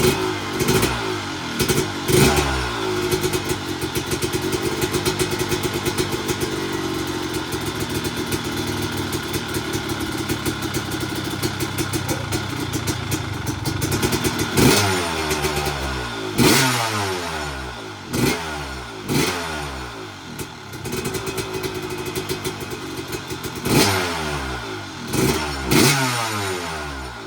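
1997 Honda CR250's single-cylinder two-stroke engine running at idle and revved with sharp throttle blips, several in quick succession toward the end. The engine is being run to check a freshly rebuilt water pump for coolant leaks.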